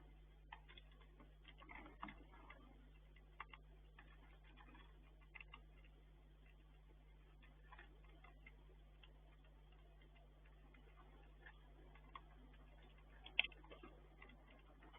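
Faint, irregular clicks and taps of a Eurasian red squirrel handling and cracking food at a wooden feeder, with one sharper tap near the end, over a steady low hum.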